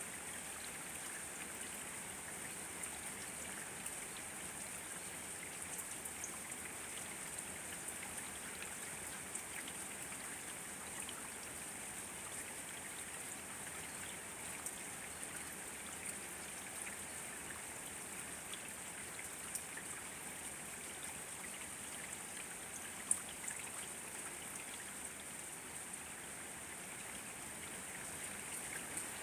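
Steady rain falling, with scattered individual drops ticking and one sharper drop about 23 seconds in.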